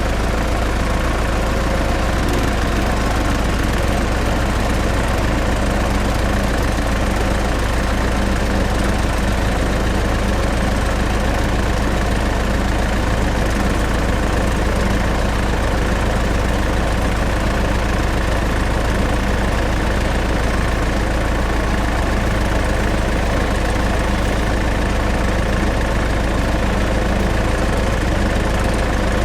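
Small engine of a DIY mini tractor running steadily at idle, an even drone that holds the same speed throughout.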